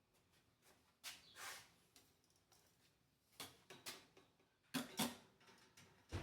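Faint handling noises: a scattering of small clicks and scrapes, as of wall-fan parts being handled during cleaning, with the loudest pair of clicks about five seconds in.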